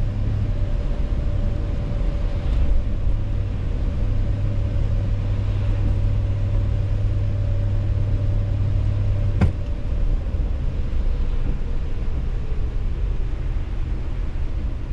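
Car driving slowly, heard from inside the cabin: steady low rumble of engine and tyres on the road with a steady hum. A single sharp click about nine and a half seconds in.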